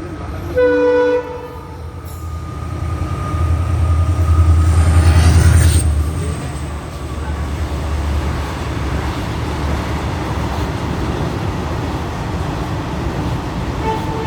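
Goods train: the horn sounds one short blast about half a second in, then the heavy low rumble of the train passing builds, is loudest around four to six seconds in, and carries on as a steady rumble of rolling wagons. Another horn note starts right at the end.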